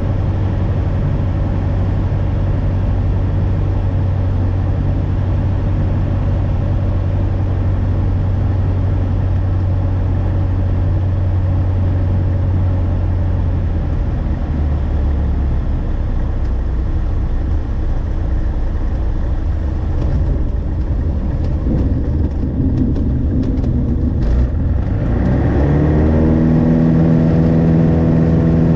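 Light aircraft's piston engine running steadily at low power, with a few short knocks about twenty seconds in as the wheels touch the runway. The throttle then opens and the engine climbs quickly to full power for the take-off of a touch-and-go.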